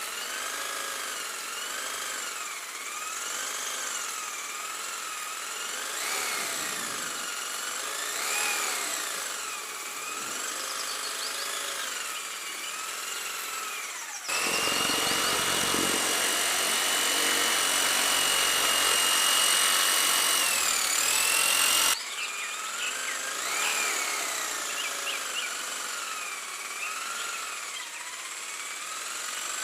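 Small DC motor whining, its pitch rising and falling as its speed changes. From about 14 to 22 seconds it runs with a louder, steady whine, then cuts off suddenly.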